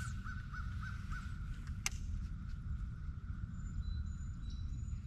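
A bird calling, a quick run of about five short arching notes that trail off into a held note, over a steady low rumble; a sharp click sounds about two seconds in.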